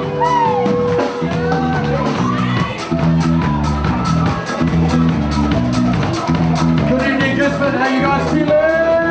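Latin-groove band playing live: a dense percussion section keeps up a fast, even pattern of drum hits over bass and instruments, with vocal lines sung over the top.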